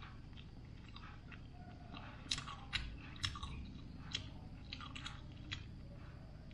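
A man chewing a mouthful of food, with wet mouth clicks and a run of sharp crunchy crackles in the middle, from about two to five and a half seconds in.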